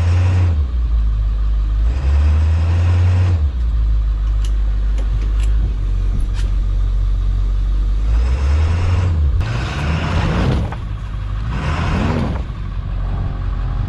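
A stuck vehicle's engine revving up in repeated surges as the driver tries to pull it free, with tyres spinning in snow and dirt. The loudest surges come late, about ten and twelve seconds in, one with a rising whine.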